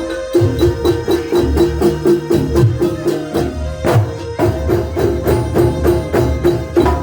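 Kuntulan ensemble music: frame drums and percussion keep a fast, even beat under a quickly repeated pitched note, with a heavy stroke about four seconds in.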